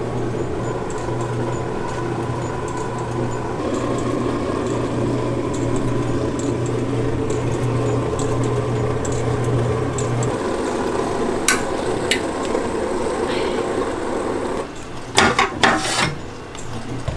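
Rice-puffing (뻥튀기) machine running: a steady rushing noise with a low hum that stops about ten seconds in, then a few loud, sharp metallic clanks near the end.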